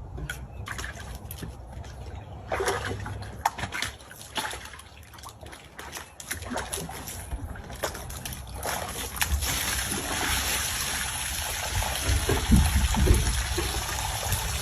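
Water splashing and trickling, with scattered short knocks in the first half and a steady rush of water from about nine seconds in.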